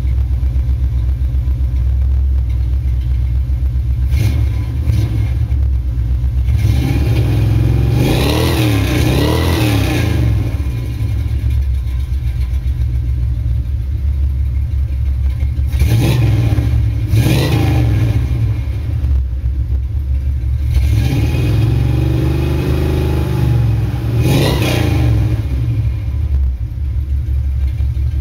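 Ford 370-cubic-inch FE big-block V8 breathing through longtube headers, a 3-inch X-pipe exhaust and Flowmaster Super 44 mufflers, idling and revved several times. There is a long rev about eight seconds in, two quick blips around sixteen to seventeen seconds, and another rev swelling up and falling back around twenty-two to twenty-five seconds.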